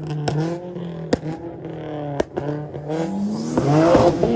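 Car engine revving in repeated blips, with sharp exhaust pops about once a second. Near the end it climbs in one long rising rev that is the loudest part, with a rushing hiss over it.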